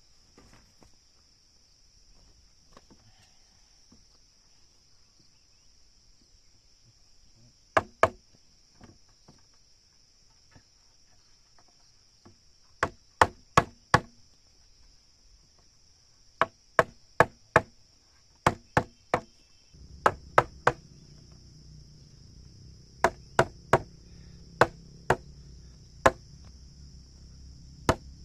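Hammer blows on wood in short runs of two to four quick strikes, each with a brief ring. A steady high drone of crickets runs underneath, and a low hum comes in about two-thirds of the way through.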